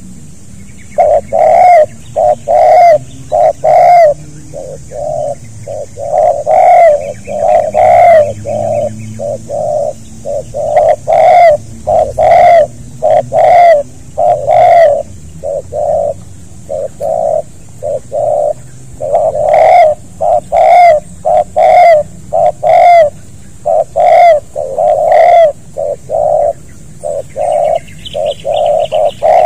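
Spotted dove cooing loudly over and over, in phrases of several deep coo notes that follow one another with short pauses. Near the end a few faint, high chirps from another bird come in.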